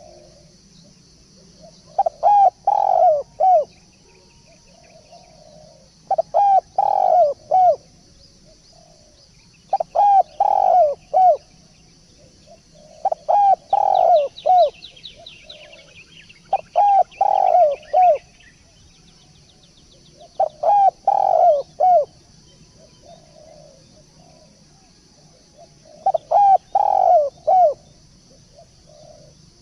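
Turtledove cooing: a repeated phrase of several short, quick coos, given about every three to four seconds, seven times over.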